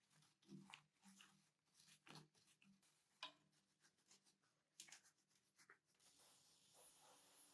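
Faint scraping and light clicks of small hand work, over a faint low hum. From about six seconds in, a steady soft hiss takes over.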